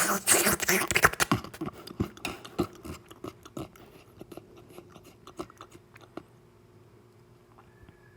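Close-miked eating sounds: a loud burst of wet chewing right at the start, thinning into scattered mouth clicks and smacks that stop about six seconds in.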